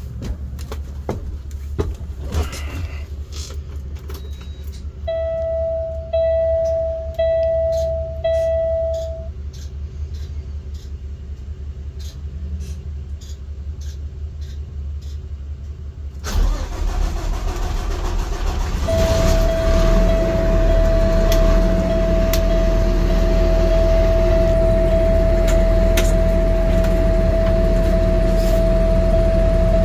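Peterbilt garbage truck's diesel engine cranking and catching about halfway through, then running steadily. Before the start come clicks and four evenly spaced dashboard warning beeps. After it a steady warning buzzer sounds over the running engine.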